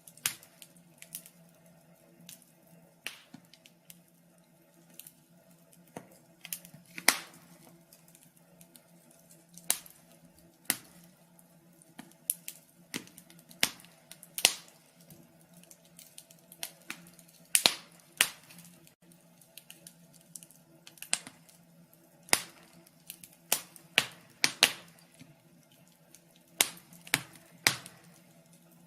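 Wood fire crackling in a fireplace: irregular sharp pops and snaps, a few loud ones among many faint ones, over a faint steady low hum.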